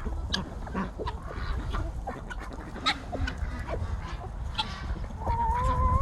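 A mixed flock of geese and ducks calling: many short honks and quacks, with one longer, steady call of about a second starting about five seconds in.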